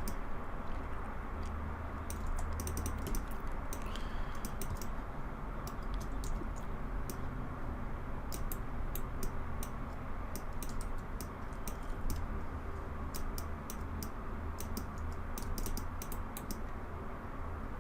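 Computer keyboard keys and clicks tapped in irregular clusters over a steady low hum.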